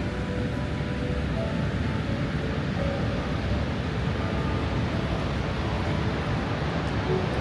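Steady roar of rushing, falling water from Niagara Falls, deep and unbroken.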